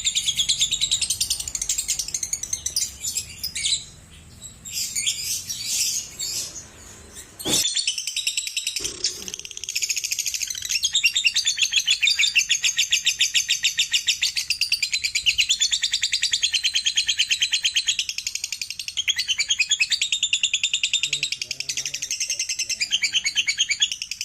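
Lovebirds chattering in long, fast trills of high notes (the 'ngekek' song), dropping off briefly a few seconds in and broken by a sharp click before the dense chatter resumes.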